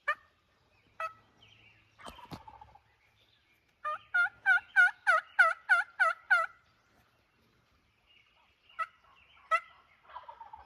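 Turkey calling: a run of about nine evenly spaced yelp-like notes, roughly three a second, with a few sharp single notes before and after.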